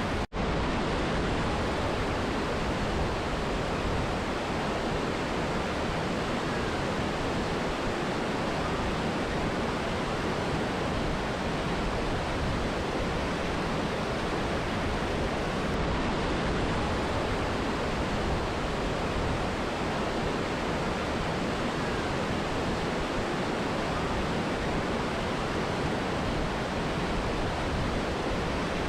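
Mountain river and waterfall: a steady, even rush of falling water, which drops out for an instant just after the start.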